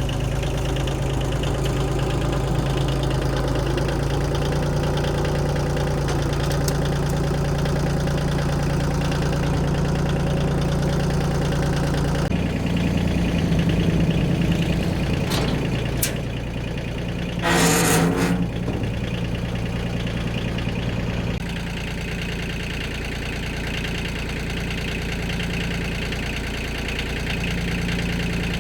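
A vehicle engine idling steadily, its tone changing abruptly twice, with a short loud hiss-like burst about two-thirds of the way through.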